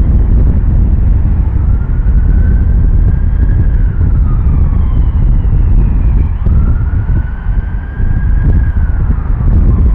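Deep, steady rumble of a BAe 146's four turbofan engines as the jet climbs away, with wind buffeting the microphone. Over it a siren wails, its pitch rising, holding and falling twice.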